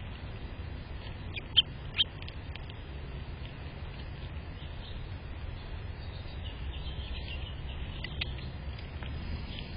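Small birds giving short, high chirps, two sharp loud ones about a second and a half and two seconds in and fainter ones scattered after, over a steady low rumble.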